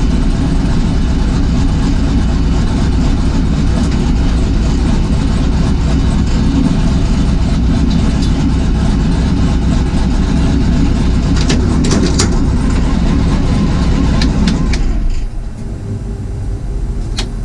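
1978 Camaro drag car's engine running steadily at low speed, then shut off about fifteen seconds in. A few sharp clicks sound in the last few seconds.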